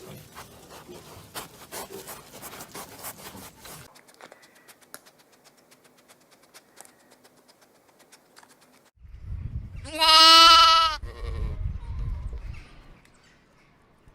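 A single loud, wavering bleat lasting about a second, near the end, preceded by several seconds of clicking and rustling.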